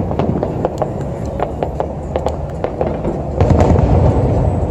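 Aerial fireworks going off: a quick run of sharp pops and crackles over a low rumble, growing louder about three and a half seconds in.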